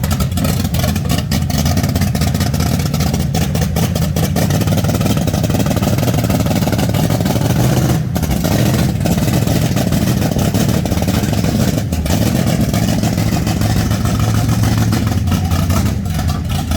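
Car engine running steadily with a loud, low rumble.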